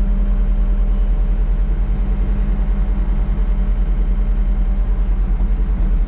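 John Deere 326D skid steer's diesel engine idling with an even low throb, and a steady hum over it that fades out partway through.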